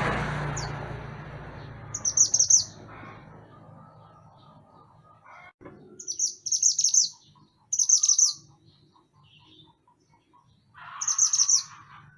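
Mantenan gunung songbird singing four short phrases of rapid, high chattering notes, spaced a few seconds apart. A rushing noise fades out over the first couple of seconds.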